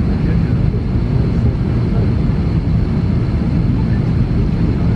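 Steady low rumble inside the cabin of an Airbus A330-300 airliner during pushback.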